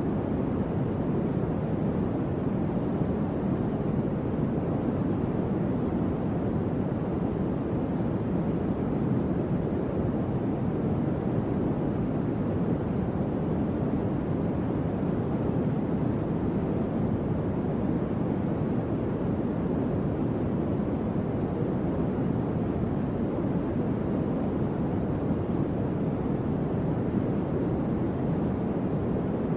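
Electric fan running: a steady, low whooshing noise of moving air that stays even throughout.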